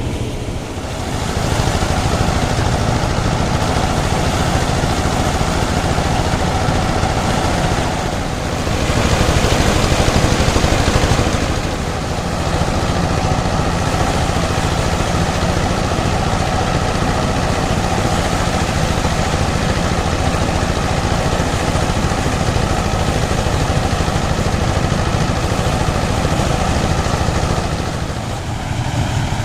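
Old-style engine-driven rice threshing machine running steadily, with a louder, rushing stretch about nine to eleven seconds in.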